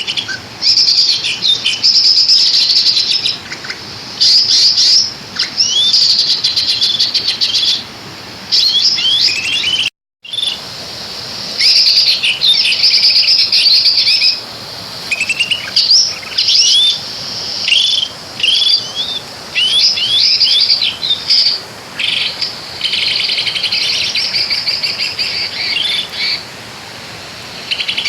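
Loud bird song: dense, repeated chirping phrases, trills and quick rising whistles, with a brief break about ten seconds in.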